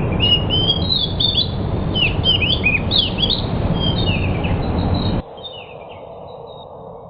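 A decu bird (bushchat) singing a quick, jumbled run of high whistled chirps and short rising and falling notes over a loud rushing noise. The noise cuts off suddenly about five seconds in, leaving a few fainter chirps.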